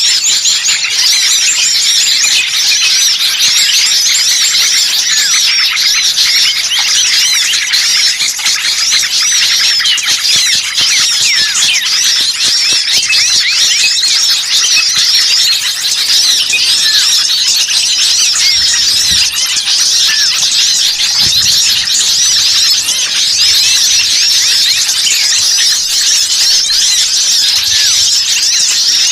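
A dense chorus of many small birds chirping and twittering at once, high-pitched, rapid and unbroken. It is a bird-catchers' lure recording of small birds calling noisily together (burcil ribut).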